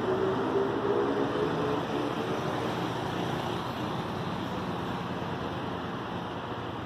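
Electric commuter train running over the tracks as it moves away: a steady rumble with a hum of several steady tones that fades out after about two seconds, the whole sound slowly growing quieter.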